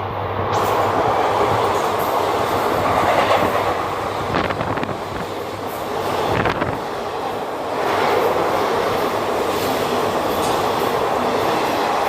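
Passenger train coaches running past at high speed: a steady loud rush of steel wheels on rail, with a few sharper clacks over rail joints near the middle.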